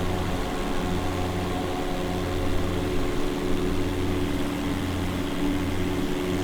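Cessna 172's piston engine and propeller droning steadily in cruise, heard inside the cabin as an even hum over rushing noise.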